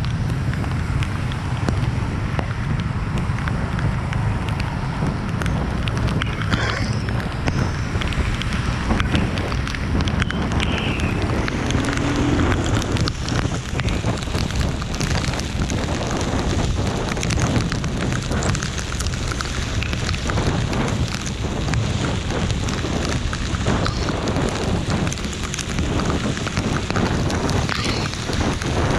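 Steady rain pattering and crackling, with a heavy low rumble of wind on the microphone.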